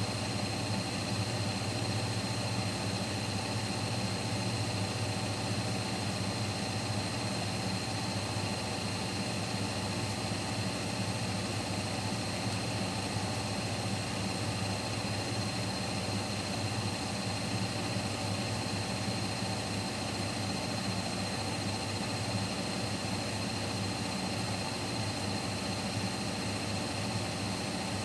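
Siemens Siwamat Plus 574 front-loading washing machine in its final spin at 800 rpm, running steadily with a low hum and a thin, steady high whine.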